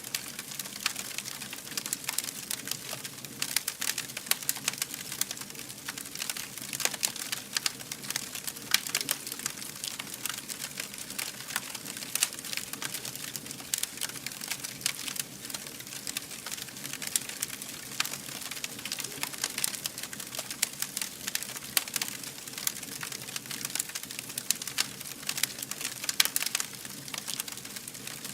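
Fire burning and crackling: a dense, irregular stream of small pops and snaps, with a few louder ones standing out.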